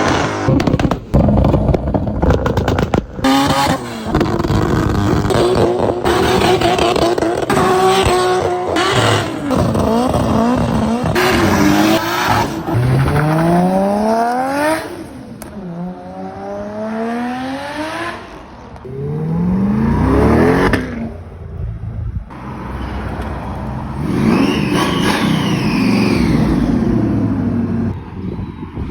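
A string of short clips of performance car engines revving hard and accelerating, the engine note sweeping up in pitch again and again as they pull through the gears, with sudden cuts from one car to the next. The first few seconds hold a rapid run of sharp cracks.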